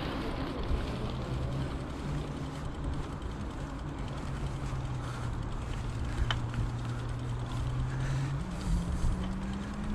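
Wind and rolling noise from riding a bicycle, with a steady low hum that steps up in pitch a little after eight seconds in and then keeps rising.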